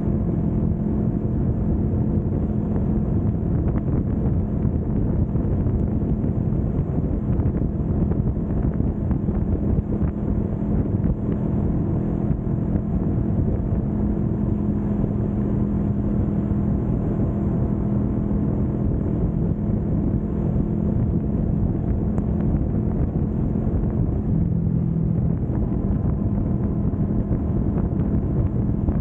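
Kawasaki Vulcan S 650's parallel-twin engine running at a steady cruising speed, with wind noise on the microphone.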